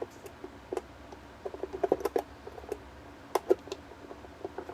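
Irregular light clicks and knocks of small parts being handled and fitted back into place inside an electric kettle during reassembly.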